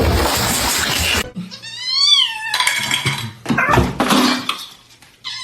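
A cat meowing: one long meow that rises and then falls in pitch, with a second meow starting near the end. Short clattering or rustling noises come between them, and a noisy stretch cuts off just before the first meow.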